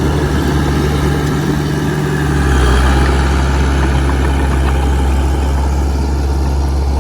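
Heavy diesel engine of earthmoving machinery running steadily, its low note shifting and getting slightly louder about two and a half seconds in.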